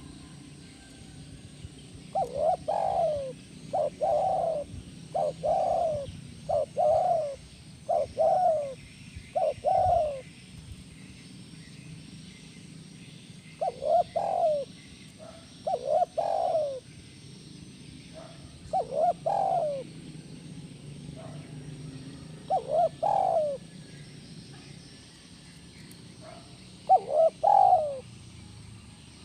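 Spotted dove (tekukur) cooing its 'kuk 1' song in repeated phrases of short coos. A long run of about seven coos comes first, then several shorter phrases after pauses of a few seconds.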